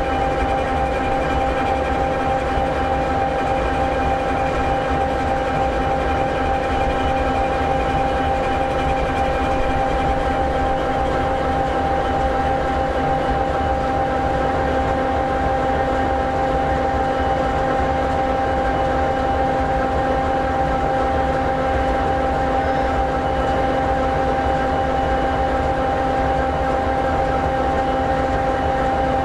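EMD SD60E locomotive's 16-cylinder two-stroke 16-710G3B diesel engine idling steadily: a constant low rumble with several unchanging whining tones over it.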